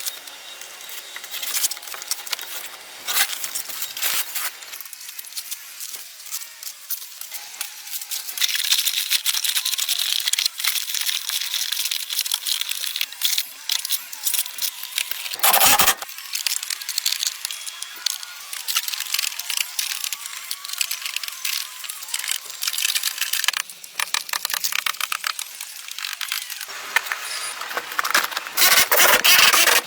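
Dense clicking, rattling and scraping of hand work on parts, with one sharp loud knock about halfway through and a louder burst near the end.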